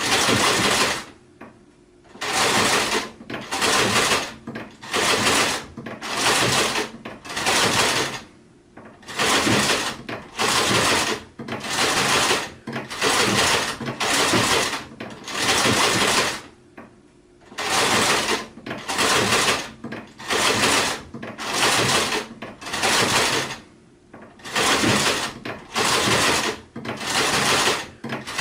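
Sewing machine stitching in short runs of about a second each, stopping and starting again over and over, with a few longer pauses between runs.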